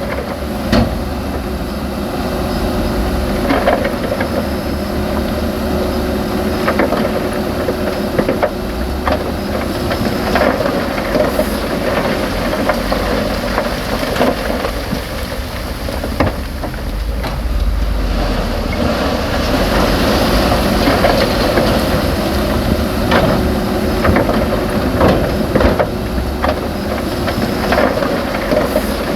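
Heavy earthmoving machinery at work: a diesel engine running steadily with a deep rumble and a held hum, and frequent short knocks and clatter throughout.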